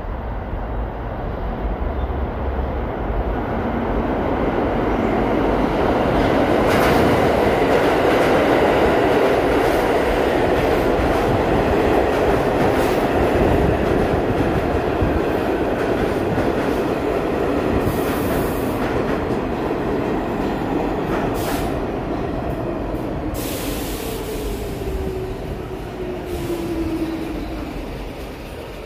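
New York City subway train running through the station: a loud rumble of wheels and motors that builds over the first several seconds, holds, then slowly fades. There are scattered sharp clicks, and a squeal falls in pitch near the end.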